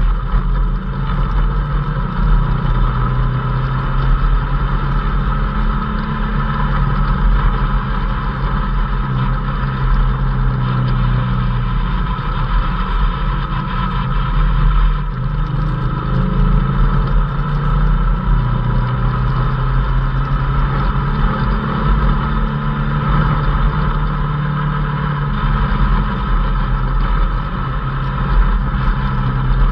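Off-road race vehicle's engine running steadily at driving speed on a dirt road, heard from inside the open cockpit, its pitch shifting a little as the throttle changes, with a steady high whine over the drone.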